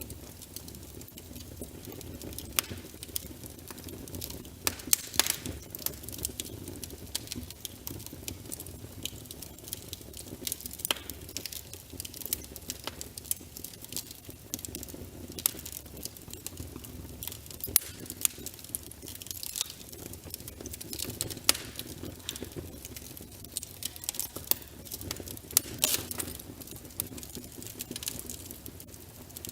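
Wood logs burning in a fireplace, crackling with irregular sharp pops over a low, steady rush of flame.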